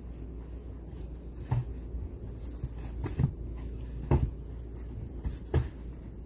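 A few short, separate knocks or thumps over a steady low hum, as in a small room.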